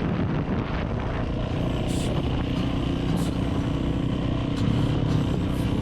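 Dirt bike engine running steadily on the move, with continuous road and wind noise.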